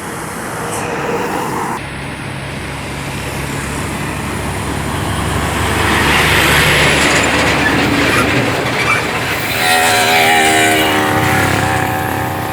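Heavy truck diesel engines labouring as they crawl up a steep hill, the sound building as a truck passes close. Near the end a higher pitched drone rises above the engine noise.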